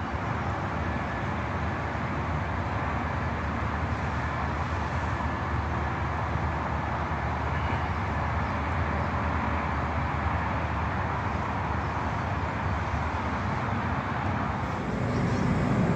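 Steady low rumble of engines or traffic under an even wash of noise, getting a little louder near the end.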